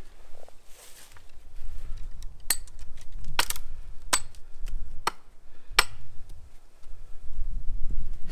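Axe blows chopping into a small tree trunk to section it into logs: about six sharp strikes between two and six seconds in, over a low rumble.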